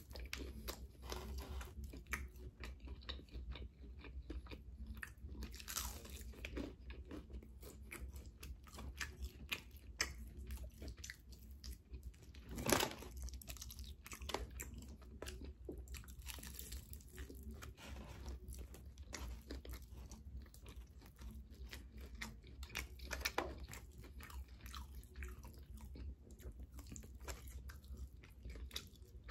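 A person chewing and biting into fried chicken wings, pulling meat off the bone: many short crunches and clicks, the loudest crunch about halfway through.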